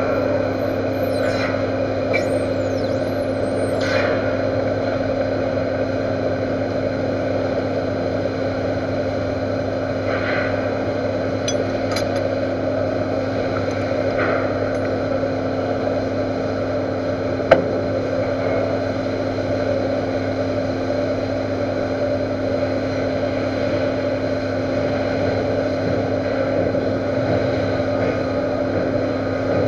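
Metal lathe running with a steady machine hum, with one sharp click about halfway through.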